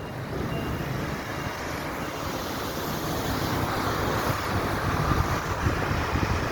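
Steady rain with gusting wind buffeting the microphone, a rough low rumble under an even hiss.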